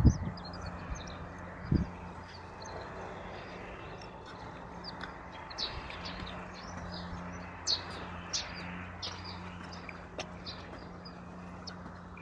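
Small birds chirping, with many short high calls scattered throughout, over a steady low hum and outdoor ambience. There are a couple of low thumps near the start.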